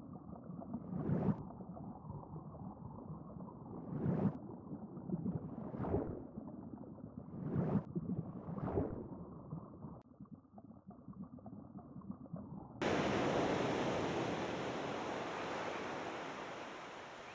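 Muffled rushing water with several swells, then about 13 seconds in a sudden cut to a brighter, steady hiss of ocean surf that slowly fades.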